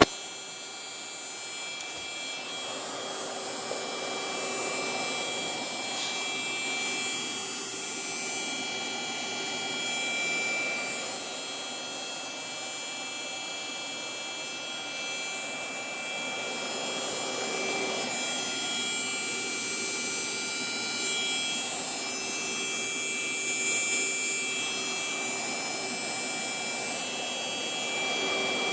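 Desktop PC under game load: a steady rushing noise with several high whining tones layered over it that swell and fade every few seconds. It is a noise that comes only while a game runs, which the owner suspects comes from the graphics card or the hard drive.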